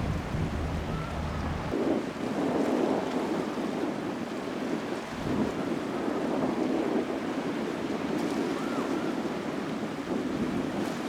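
Sea waves washing against the shore in swelling surges, with a low engine-like hum that cuts off about two seconds in.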